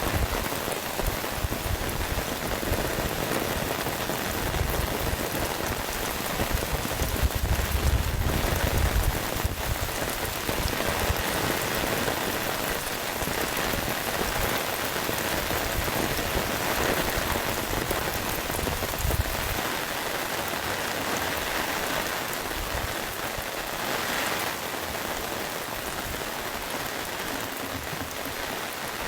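Steady heavy rain, with low gusts of wind swelling in now and then, the strongest about five to ten seconds in.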